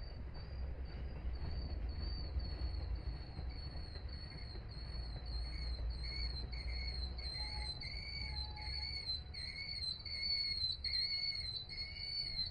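Low rumble of a slow-moving freight train that dies away about nine seconds in, under a high-pitched ringing tone that pulses about twice a second and grows stronger.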